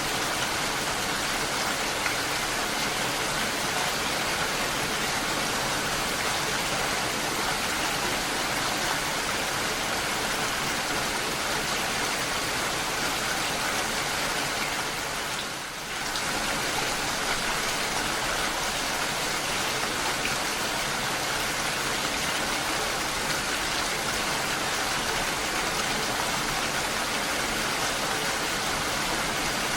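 Steady rainfall, an even hiss of falling rain that dips briefly about halfway through.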